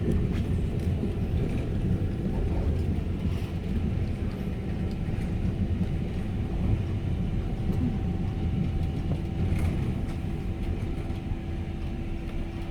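Christchurch heritage electric tram running along its street track, a steady low rumble of the car and its wheels on the rails. A steady hum grows stronger near the end as the tram nears the next stop.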